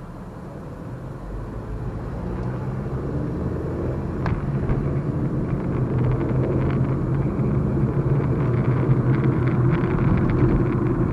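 Car engine and road noise heard inside the cabin of a Chevy Equinox as it pulls out and speeds up, growing louder over the first several seconds and then holding steady with a low hum.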